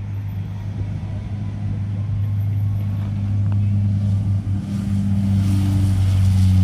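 An engine running with a steady low hum, growing steadily louder as a hiss builds over it from about four seconds in.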